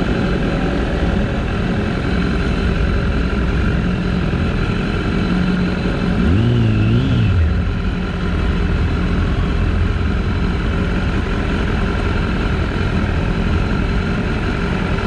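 BMW S1000RR's inline-four engine running while riding, with a short rev about six seconds in whose pitch rises and falls twice before settling back.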